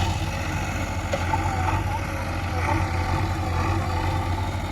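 Heavy diesel engine running steadily at a constant speed, with an even low hum.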